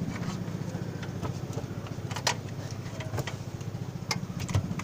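An engine running steadily with a low, fast-pulsing drone, and several sharp knocks scattered through it.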